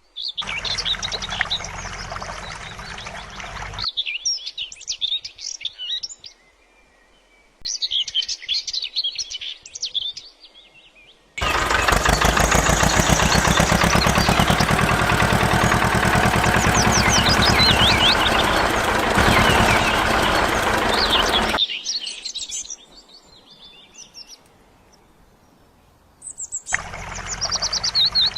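Small birds chirping and tweeting, broken up by loud, steady rushing noise that starts and stops abruptly, the longest stretch lasting about ten seconds in the middle.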